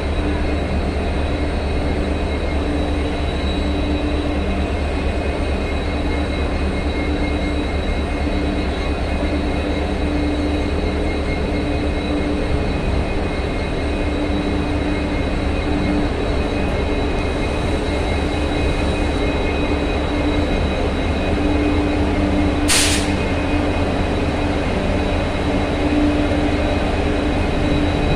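Steady running noise of the Vande Bharat Express train: a continuous low rumble with a steady hum over it, and a single sharp click about three-quarters of the way through.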